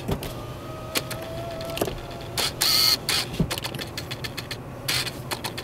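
Strong south wind blowing snow in a ground blizzard, swelling into hissing gusts, with scattered clicks and knocks. A thin whistle sounds for about a second and a half near the start.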